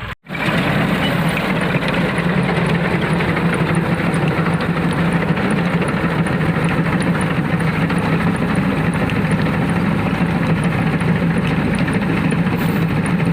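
Diesel tractor engine running steadily while pulling a reaper binder cutting wheat. The sound cuts in abruptly just after a brief gap at the start.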